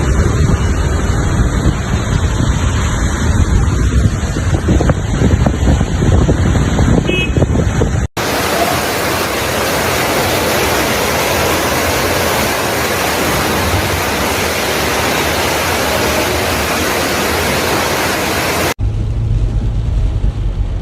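Steady outdoor noise of heavy rain, wind and running water, in three clips with abrupt cuts about eight seconds in and near the end. The first and last clips carry a deep rumble, the middle one an even hiss.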